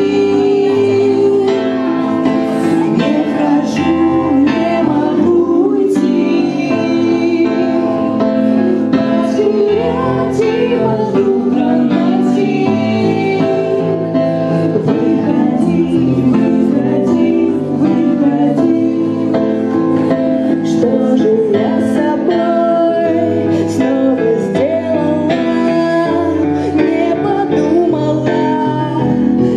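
A rock band playing live, with a voice singing the melody over the accompaniment.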